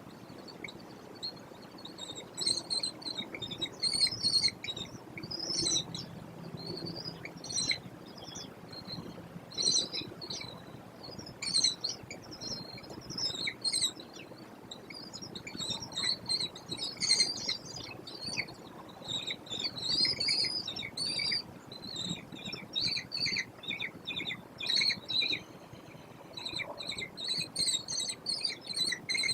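Birds chirping: many short, high-pitched notes in quick, irregular runs, turning into a fast, even series near the end.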